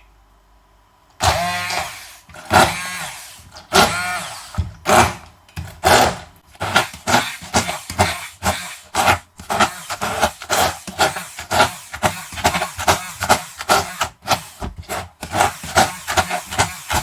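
Immersion blender motor running in short pulses, starting about a second in. Its whir rises and falls with each burst, slowly at first and then about two to three bursts a second, as it chops egg-carton paper soaked in hot water into a runny pulp.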